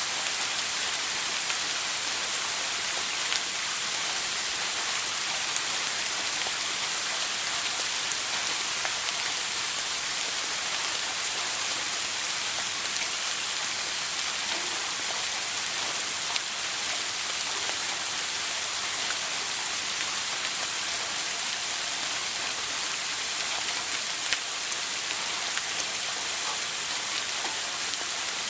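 Shower water spraying steadily, a continuous even hiss of falling water with a few faint drip-like ticks.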